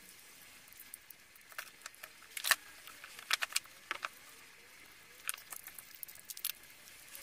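Irregular light clicks and taps of small plastic parts being handled and fitted together as a portable inflator's pump and battery go back into its plastic housing. The loudest tap comes about two and a half seconds in.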